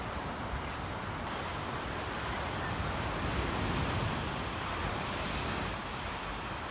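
Sea waves washing onto a beach, a steady rush that swells and eases, with wind buffeting the microphone.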